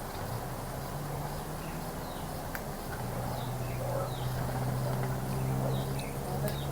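Short, faint, high bird chirps over a steady low hum that sets in about a second in and grows stronger about three seconds in.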